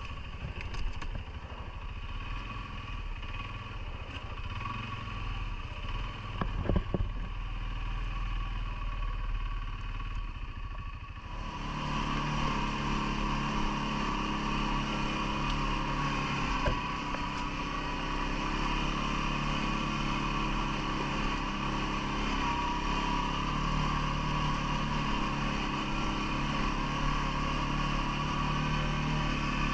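CFMoto ATV engine running, with a few knocks about seven seconds in; about eleven seconds in it gets suddenly louder and holds there steadily.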